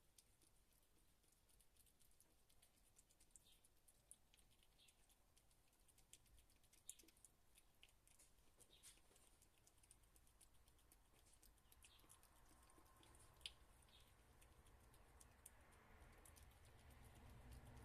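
Very faint, scattered light clicks and patters, like small kittens' paws and claws moving about on a surface. A low hum grows over the last few seconds.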